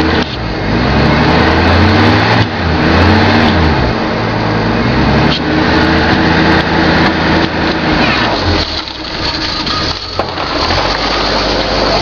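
1986 Ford F-150's 4.9-litre inline-six engine running shortly after a cold start, its revs rising and falling a few times in the first seconds, then holding steadier. It runs, though not at its best.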